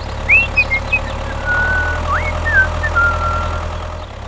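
Small engine of a homemade mini tractor running steadily with an even low chug. A few high, gliding whistle-like tones sound over it in the first three seconds.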